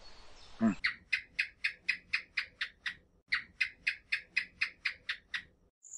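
A short, low, falling call from an alpaca just under a second in, then a rapid series of short, high chirps, about four or five a second, with a brief break midway.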